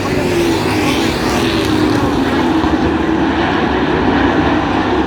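A field of Pro Truck race trucks running at racing speed, their engines loud and steady with a pitch that wavers slightly as they pass.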